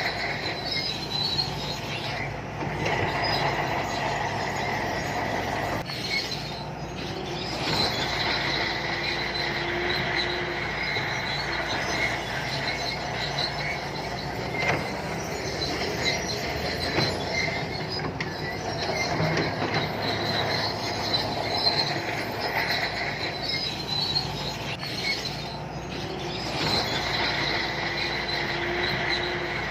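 Shantui crawler bulldozer working, its diesel engine running steadily under a continuous high metallic squeal from its steel tracks.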